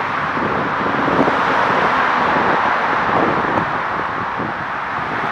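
Steady rolling noise of a passing train, wheels running on the rails, swelling slightly and then easing off.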